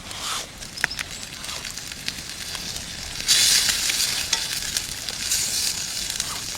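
Food sizzling in a pan over a campfire, with small clicks throughout; the sizzle swells louder about three and a half seconds in and again around five and a half seconds.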